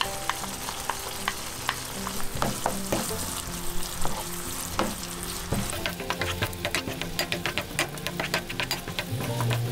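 Quinoa and chopped onion sizzling in sesame oil in a frying pan while a wooden spatula stirs in gochujang, with frequent clicks and scrapes of the spatula against the pan that come thicker in the second half.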